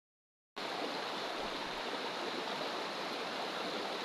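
Steady rush of river water flowing, starting after a half-second gap of dead silence at the very start.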